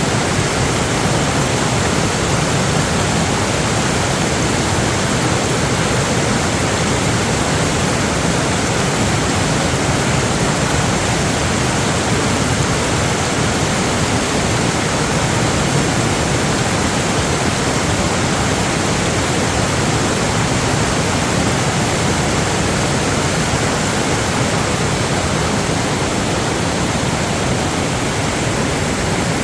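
Rushing water, a loud, steady, unbroken hiss spread evenly from low to high pitch.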